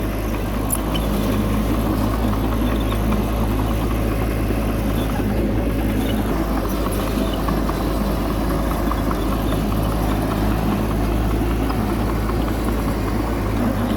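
Heavy diesel machinery engine running steadily at an even pitch, with no revving.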